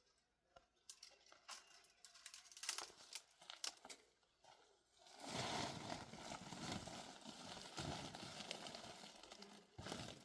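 Faint crackling and rustling of dry material: scattered crackles at first, then a denser, steady rustle from about halfway.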